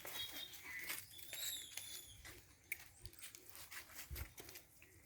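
Faint bird calls: short high chirps and whistles, with a fuller whistled call about a second and a half in, over scattered clicks and rustles.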